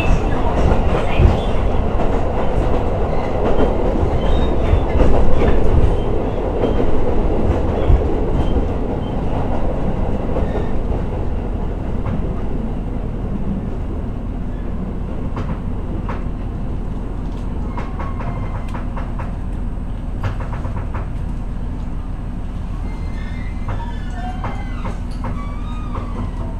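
Inside a KiHa E130 diesel railcar on the move: running noise and wheels clacking over rail joints, easing off after several seconds to a steadier, quieter diesel hum.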